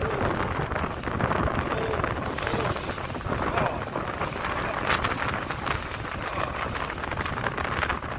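Wind buffeting the microphone over the steady rush of sea water along a moving ship's hull, with faint voices near the start and about two seconds in.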